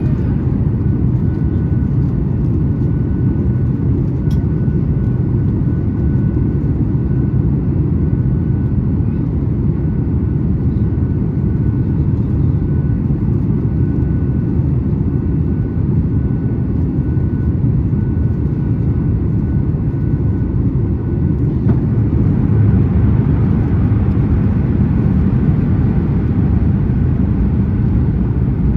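Cabin noise inside a Boeing 737 MAX 8 near the wing: a steady low rumble of engine and airflow noise. About 22 seconds in, it grows slightly louder and brighter.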